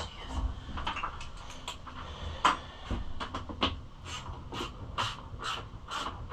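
Clicks and knocks of hand tools and plastic bodywork being worked on a pit bike, with one louder knock about halfway through and, in the second half, a regular run of clicks about two a second.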